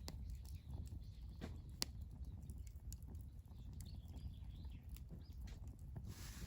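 Wood campfire crackling: scattered sharp pops and ticks, the loudest about two seconds in, over a low steady rumble, with a brief hiss near the end.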